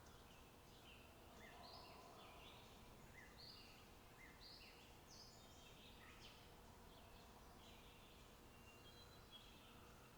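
Faint small birds chirping: many short, high notes overlapping throughout, over a quiet steady background hiss.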